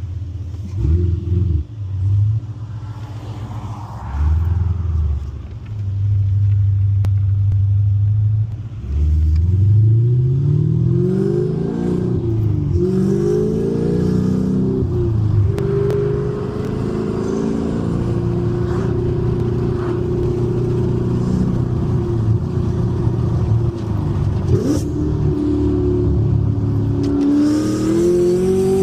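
Chevrolet Camaro ZL1's supercharged V8 through an aftermarket exhaust: two short revs at idle, then accelerating from about nine seconds in, the pitch rising and dropping back at each gear change, settling into a steady cruise and picking up again near the end.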